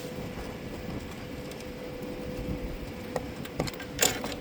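Steady machine hum with a thin constant tone. A few sharp knocks come near the end, the loudest about four seconds in.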